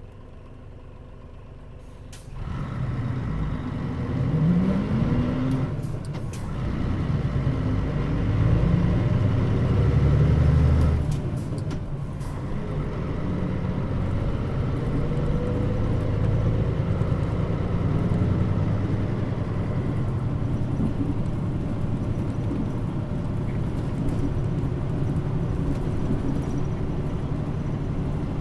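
Mitsubishi Fuso Aerostar city bus (Nishitetsu body, KL-MP35JM) heard from on board pulling away. After a quiet first two seconds the diesel engine picks up suddenly and revs rising in pitch through the low gears, with brief air hisses at the shifts around six and eleven seconds in. It then settles into steady running.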